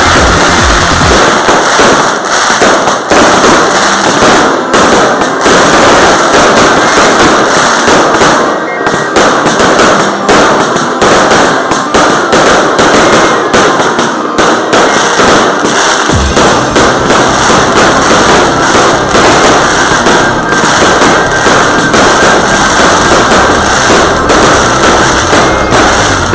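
Fireworks display going off without a break: a dense, loud run of crackling and bangs, with deeper booms filling in about two-thirds of the way through.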